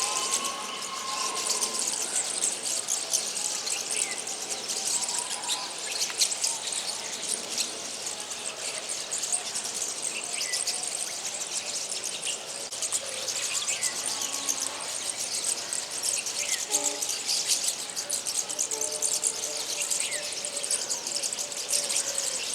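Steady high-pitched chirring, like insects, with small birds calling over it. Short downward-sliding chirps come every few seconds.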